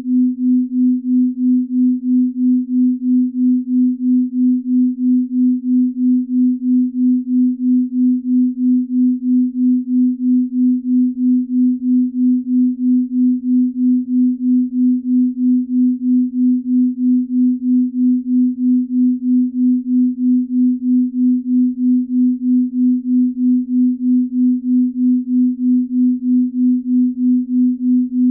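Binaural-beat tone: a single steady, low pure sine tone whose loudness pulses evenly a few times a second.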